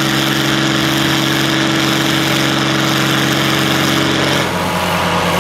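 Oliver 1655 tractor's naturally aspirated diesel engine running at a steady high speed, then throttled back to a lower speed about four and a half seconds in.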